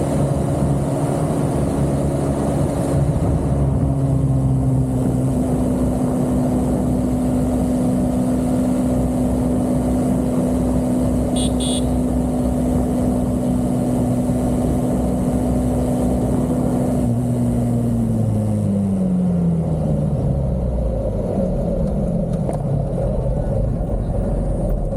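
Motor vehicle engine running at a steady speed with heavy wind and road noise, then its note falls over several seconds near the end as the vehicle slows down.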